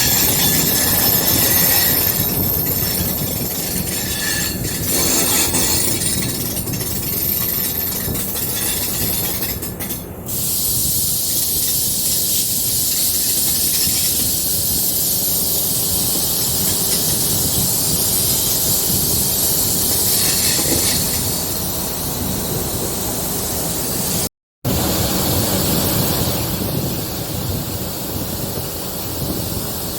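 Diesel electric multiple unit (DEMU) train running on the rails: steady wheel and track noise with a high hiss. About three quarters of the way through, the sound drops out completely for a moment.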